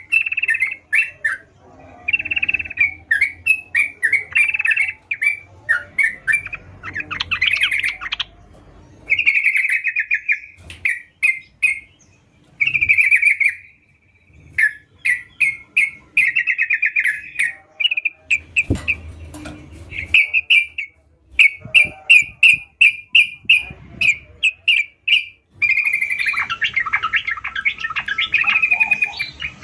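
Yellow-vented bulbul (trucukan) singing continuously in quick, chattering phrases separated by short pauses, with a fuller, denser run of song near the end.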